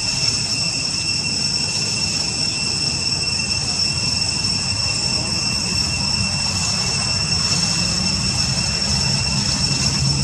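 Steady outdoor ambience: a constant high-pitched whine over a low rumble that swells slightly near the end.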